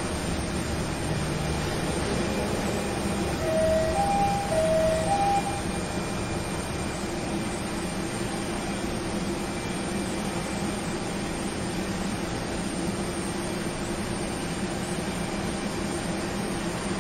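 Steady mechanical rumble, with a two-note electronic chime sounding twice, low then high, about four seconds in.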